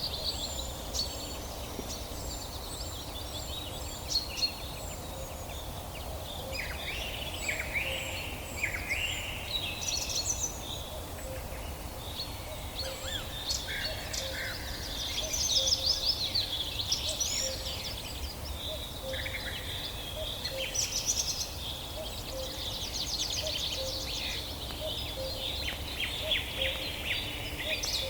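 Several songbirds singing and calling at once in a forest dawn chorus: overlapping trills, chirps and short falling whistles, over a steady low background hum.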